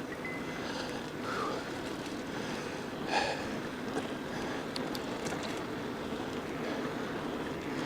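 Steady wind and tyre noise from a mountain e-bike being ridden, with a few light clicks and rattles around the middle.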